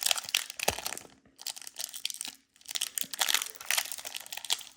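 Foil wrapper of a Pokémon TCG booster pack crinkling as it is handled and torn open, in irregular crackles with two short pauses.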